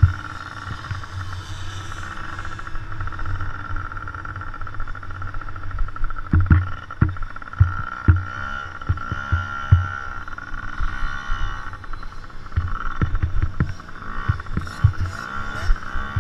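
Dirt bikes running on a motocross track, a steady engine whine throughout, with frequent short low thumps and knocks close to the microphone.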